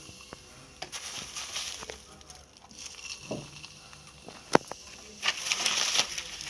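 Sticky styrofoam-and-acetone slime being worked by hand, making small clicks and crackly squelches, with a sharp snap about four and a half seconds in and a run of crackling near the end.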